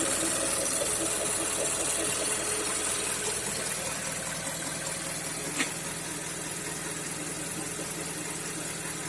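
Mazda CX-5's 2.5-litre Skyactiv-G (PY) petrol engine idling fully warm, with a rhythmic knock. The owner suspects the swirl flaps in the intake manifold. A single sharp click comes a little past halfway.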